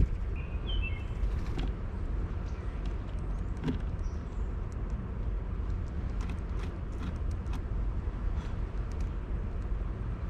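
Scattered sharp taps and clicks of a bird pecking and moving on a seed tray feeder close to the microphone, over a steady low rumble. A short high bird chirp about a second in.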